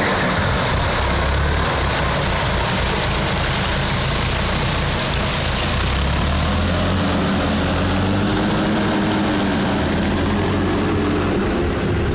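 Tractor engine running loud under load, its low pitch stepping up and down a few times as the throttle changes.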